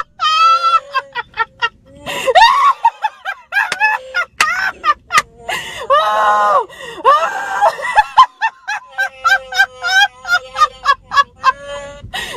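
A woman laughing hard in high, rapid bursts. Several times she is interrupted by the electronic Chewbacca roar of a talking Chewbacca mask, which sounds whenever her mouth moves.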